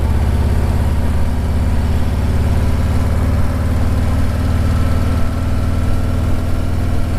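Motorcycle engine running steadily while being ridden, a low, even engine note that barely changes.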